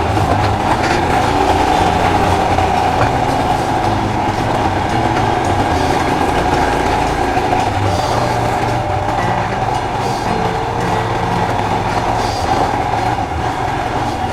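Royal Enfield Himalayan motorcycle being ridden, its single-cylinder engine running steadily with road noise.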